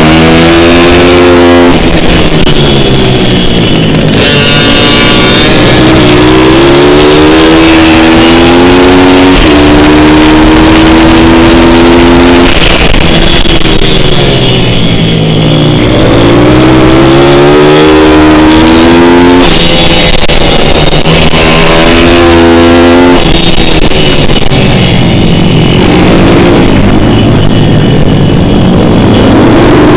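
Pit bike's single-cylinder four-stroke engine being ridden hard: the revs climb again and again, then drop back off the throttle.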